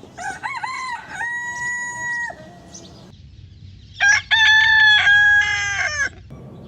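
Rooster crowing twice: two long cock-a-doodle-doo calls, the second one louder, with a pause of under two seconds between them.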